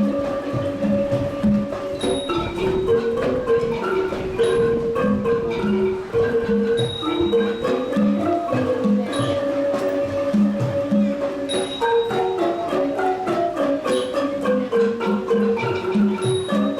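An ensemble of ranat ek, Thai classical wooden xylophones, played in fast, even mallet strokes. A high ringing accent sounds about every two and a half seconds.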